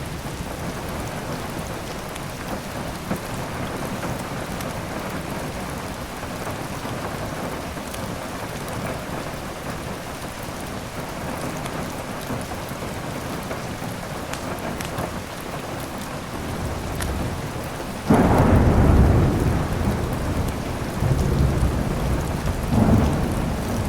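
Steady heavy rain with occasional faint crackles from a wood fire. About eighteen seconds in, a sudden loud clap of thunder breaks out and rumbles on, swelling again near the end.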